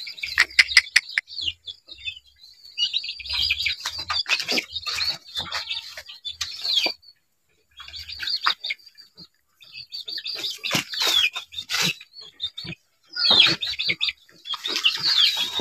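Birds chirping over and over in short high calls, some of them falling in pitch, with short clicks and rustles between them.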